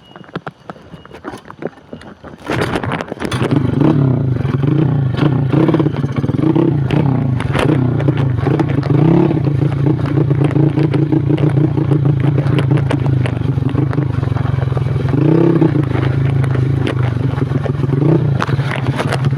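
Yamaha Jupiter Z underbone motorcycle, modified to 130cc, with its single-cylinder four-stroke engine running under way on a rocky trail, its revs rising and falling, with clattering from the bike over rough ground. The engine comes in loudly about three seconds in, after a few faint clicks.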